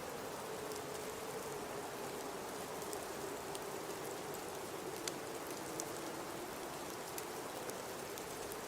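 Blizzard wind: a steady rushing hiss with a low howling tone that wavers and sinks slightly in pitch, with scattered light ticks over it.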